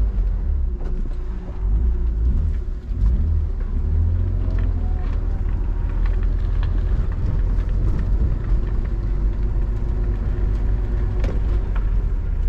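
BMW inline-six engine running with a deep rumble, heard from inside the car; its pitch rises about four seconds in as it pulls harder, then holds steady.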